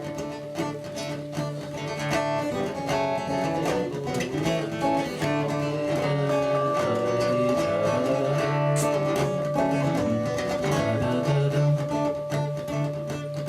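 Acoustic guitar playing a song's instrumental introduction, a steady run of plucked notes and chords.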